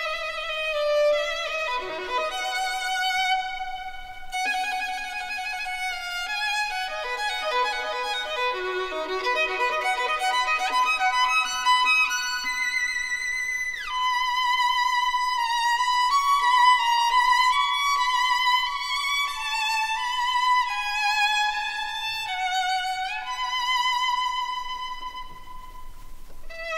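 Background music: a violin playing a melody with vibrato.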